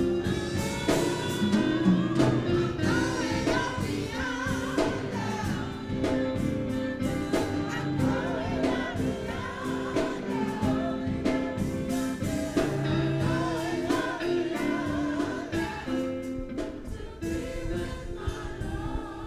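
Gospel song: several voices singing with vibrato over sustained instrumental chords and a steady drum beat. It fades down near the end.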